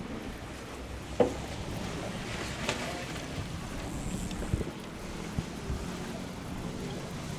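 Wind buffeting the microphone over water, a steady low rumble. A sharp knock about a second in, and a couple of duller thumps later on.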